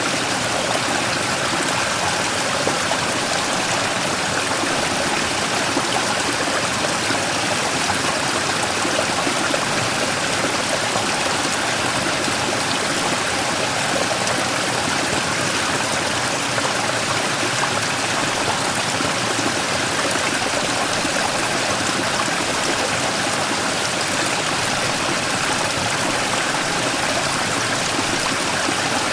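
Mountain stream splashing and rushing over a large rock in a small waterfall, a steady, even water noise.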